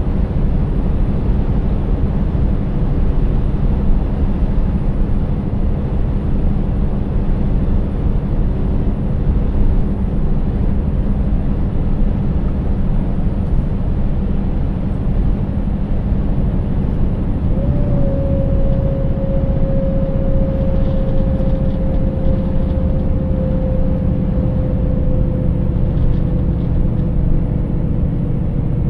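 Scania 590S truck's 16-litre V8 diesel running steadily under way, with a constant low engine drone and road noise. About two-thirds of the way in, a thin whining tone comes in and slowly falls in pitch.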